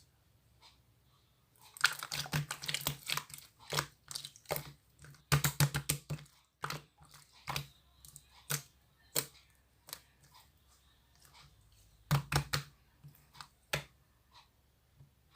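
Clear slime being worked by hand, giving clusters of sharp clicks and pops from trapped air, with single pops scattered between them.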